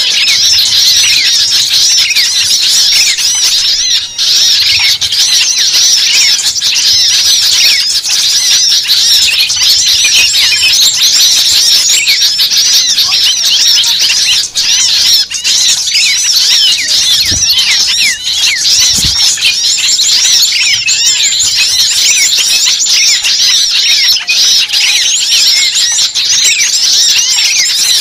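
Dense, continuous chorus of many small birds calling at once: rapid, overlapping high-pitched chirps and squeaky notes, the excited chatter used as a lure recording to draw small birds in.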